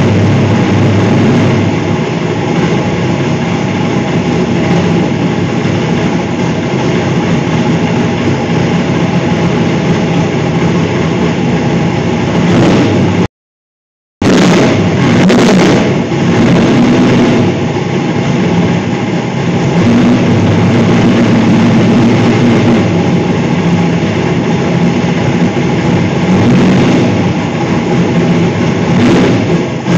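545-cubic-inch big-block Ford V8 in a drag-racing Mustang running loud and fairly steady on its first startup. The sound cuts out completely for about a second roughly halfway through, then the engine is heard running again.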